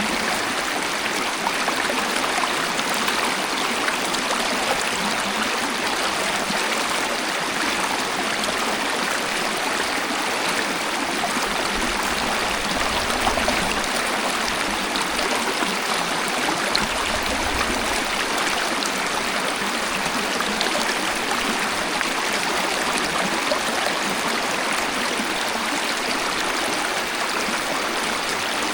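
Waterfall: a steady, even rush of falling and flowing water, with a brief low rumble twice around the middle.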